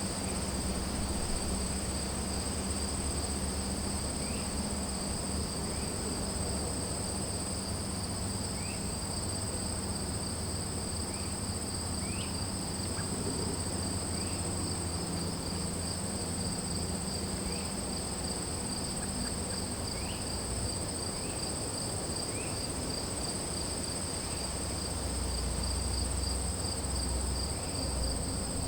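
Steady chorus of insects singing, in two unbroken high-pitched bands, with short rising chirps now and then and a low rumble underneath.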